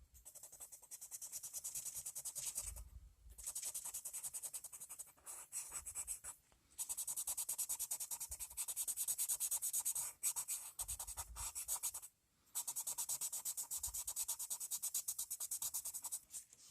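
Colored pencil shading rapidly back and forth on paper, a fast even scratching in long runs with brief pauses between them.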